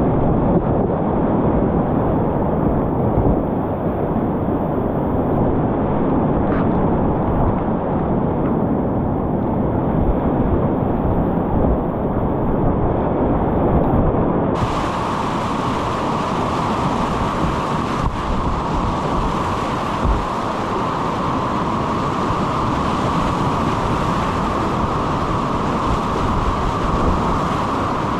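Whitewater rapids rushing loudly and steadily, with wind buffeting the microphone. About halfway through the sound changes abruptly to a brighter, hissier rush.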